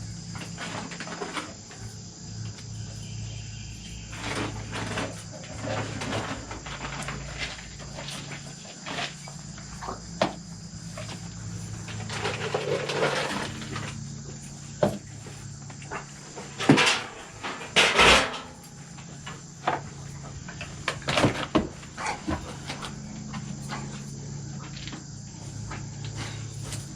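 A steady high drone of insects, with scattered knocks and bangs over it; the loudest two come close together a little past the middle.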